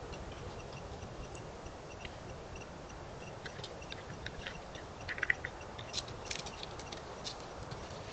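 Night ambience of steady hiss with faint, evenly spaced ticks, then a scatter of sharp clicks and short chirps from an unseen animal starting about halfway in, one brief chirp standing out.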